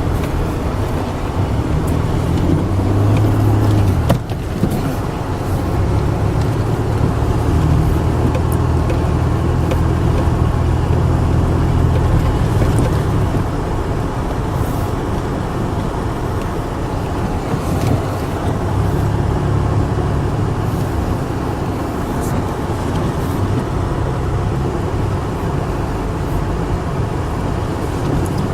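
A car driving, its engine hum and road noise running steadily and rising and falling in strength, with a brief dip about four seconds in.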